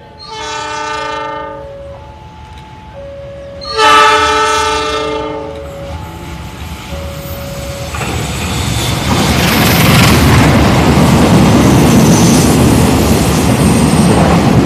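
An Argo Bromo Anggrek express train's diesel locomotive sounds its multi-tone horn in two blasts, the second louder. Then the train passes close by, with a loud rumble and wheel clatter that builds from about halfway through and holds.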